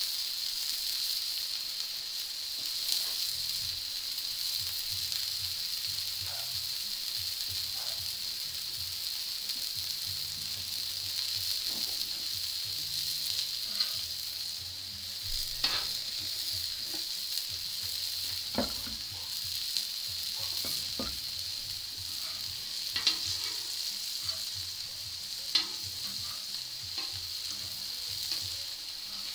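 Burger patties and bacon strips sizzling steadily on a hot round griddle. Metal tongs click sharply now and then, several times in the second half, as the bacon is turned and the patties are handled.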